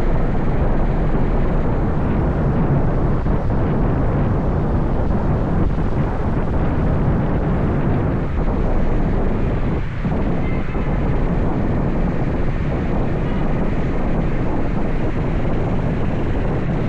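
Steady wind rush on the microphone of a moving motorbike, with the bike's engine and road noise under it.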